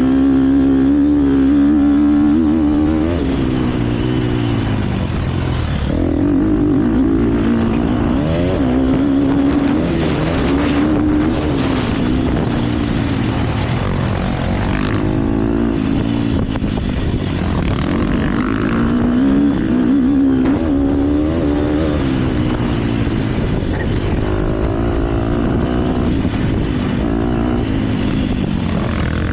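KTM motocross bike engine at race pace, revving up and backing off over and over, its pitch climbing and dropping every few seconds as the throttle is opened and shut through the track's corners and jumps.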